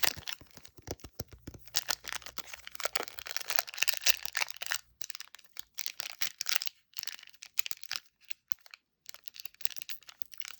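Foil wrapper of a Pokémon booster pack being crinkled and torn open by hand: a run of irregular crackles with a few short pauses.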